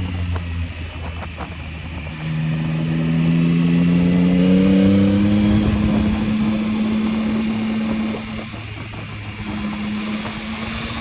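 Yamaha MT-09 inline-three engine on the road, heard from the rider's position. It is light on the throttle at first, then pulls up through the revs from about two seconds in with a steadily rising note. It eases off about eight seconds in and then builds again gently.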